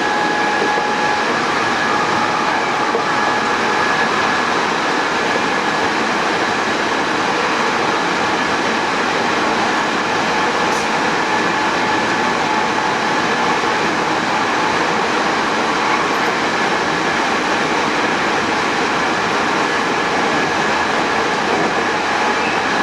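Hankyu 8000 series electric train with Toshiba GTO-VVVF control, heard inside the car, running at a steady speed: an even rumble of wheels on rail with faint steady high whines over it.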